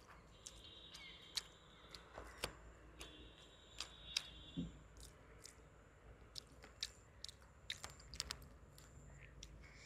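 Faint close-up chewing of crisp fried tilapia, with small crunches and clicks at irregular intervals.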